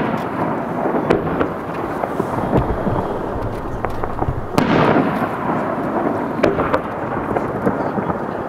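Fireworks shells bursting: a continuous rolling rumble with scattered sharp crackles and pops. One loud boom about four and a half seconds in, trailing off in a rumble over about a second, after the fading tail of another boom at the start.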